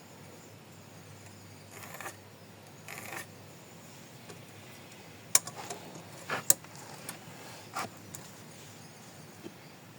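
Two short scraping rasps near the start, then a handful of sharp clinks and knocks over a few seconds: tools or metal hardware being handled while working.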